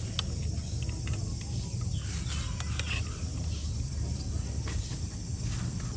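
A steady low hum with scattered faint clicks and ticks.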